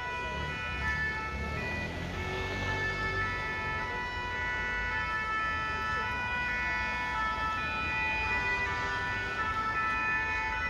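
Two-tone sirens of Paris fire brigade engines sounding, holding steady pitches that change in steps, over a low rumble of engines and traffic.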